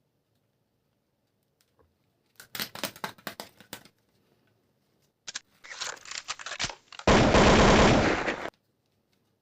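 A toy gun's electronic machine-gun sound effect: a loud rapid rattle lasting about a second and a half that cuts off suddenly near the end. Before it come two short runs of quick clicks.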